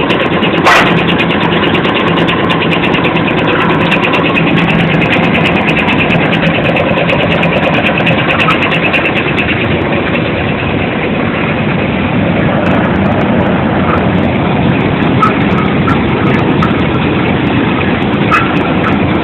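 Coffee dryer machinery running with a loud, steady mechanical drone and rattle, with one sharp knock just under a second in.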